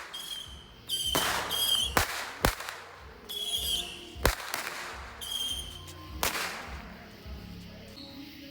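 Fireworks going off: four short, high whistles, like whistling rockets, and several sharp bangs a second or two apart.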